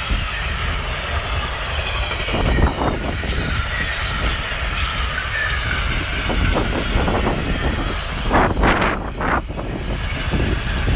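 Intermodal freight train of container and trailer-carrying wagons rolling past close by: a steady heavy rumble of steel wheels on rail with repeated clatter, and a louder run of clatter about eight to nine seconds in.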